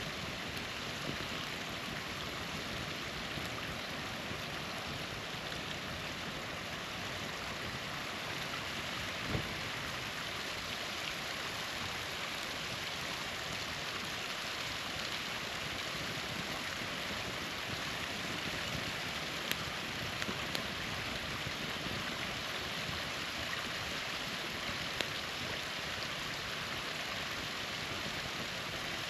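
Steady rush of a small waterfall, with a few sharp pops from a wood campfire about 9, 19, 20 and 25 seconds in.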